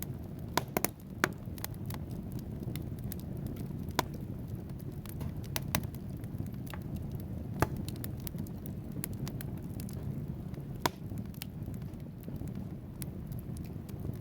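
Wood fire burning in a fireplace: a steady low rumble of flames with irregular crackles and sharp pops from the logs, several loud pops scattered through, including a cluster about a second in.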